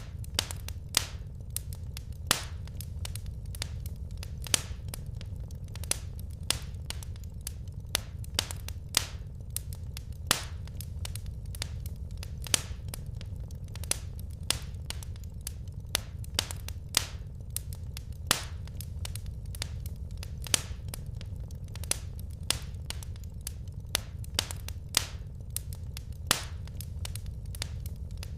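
Wood fire crackling: irregular sharp pops and snaps, a few each second with some louder ones, over a steady low rumble of the burning fire.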